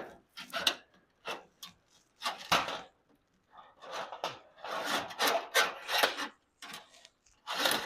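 Irregular scraping and rubbing strokes from hand-tool work on a garage door's cable drum and lift cables, a series of short rasping bursts with brief pauses between them.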